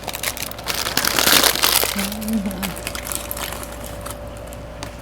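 Takeout food wrapping crinkling and rustling as it is folded back around the food, loudest about a second in.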